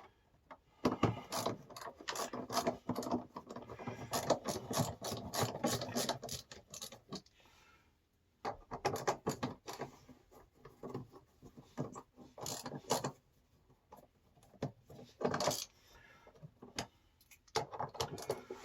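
Hand tools and metal parts being handled: irregular clicking, rubbing and scraping during work on an electric water heater's heating element. The work comes in two busy stretches with a short pause between them.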